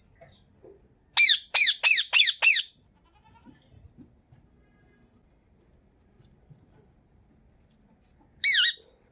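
Indian ringneck parakeet screeching: five quick shrill calls in a row, each falling in pitch, then a single wavering call near the end.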